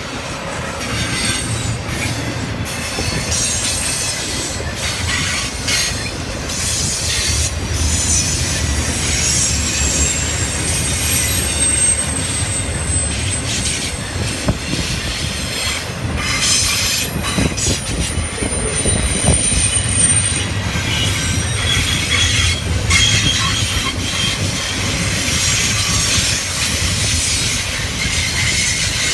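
Intermodal freight train rolling past: the steady rumble and clatter of double-stack container well cars and trailer flatcars on the rails, with faint high wheel squeals now and then.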